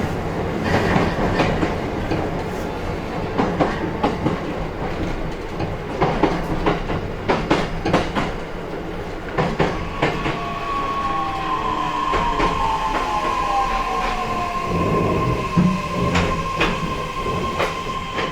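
Onboard running sound of an E131-1000 series electric train's motor car: wheels clicking over rail joints, then from about halfway a steady high squeal joins in along with a motor whine that falls in pitch as the train slows.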